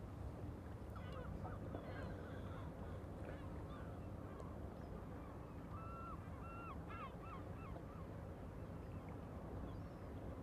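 Birds calling, in short pitched calls: a scattered few starting about a second in, then a quick run of about five near the middle, all over a steady low rumble.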